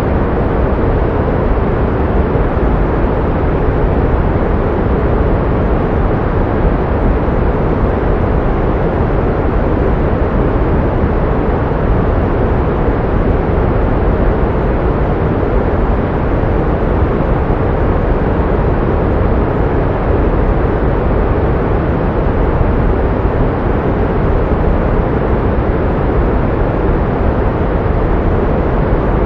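Steady synthetic pink noise: an even, unchanging hiss, heavier in the low end and thinning out toward the highs.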